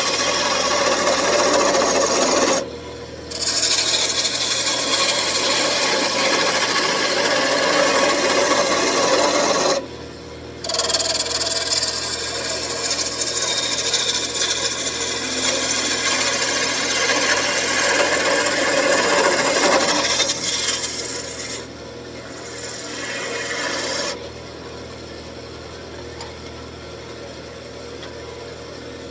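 Wood lathe turning: a gouge cuts a spinning hardwood table leg with a steady scraping, shaving sound, lifting off briefly twice. Near the end the cutting stops, leaving the lathe motor's steady hum.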